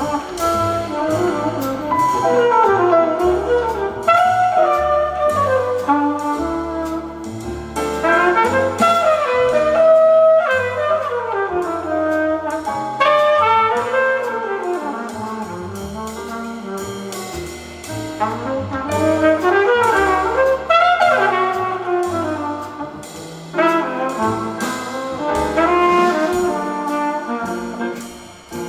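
Live jazz quintet: a flugelhorn plays flowing melodic lines over a walking double bass, drums with cymbals, piano and guitar.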